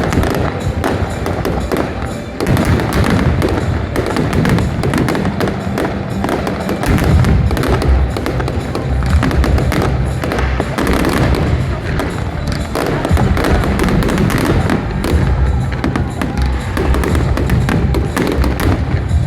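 Fireworks salute with repeated bangs and crackles of bursting shells, over loud music.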